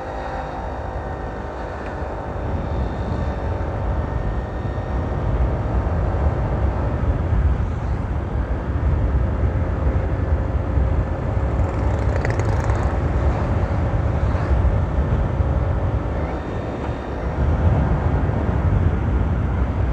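Honda PCX scooter underway, its engine and CVT running with a faint turbo-like whine from the CVT cooling fan over heavy wind and road rumble on the microphone. The sound grows louder over the first several seconds as it gathers speed.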